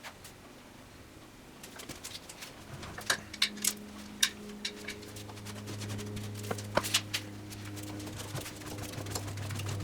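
Scattered metal clicks and clinks of tools and parts being handled during saw disassembly, with a low steady hum that grows louder from about halfway through.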